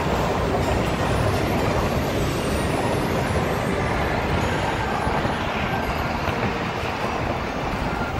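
Locomotive-hauled passenger train of 25G coaches rolling past, a steady rumble of wheels on rail.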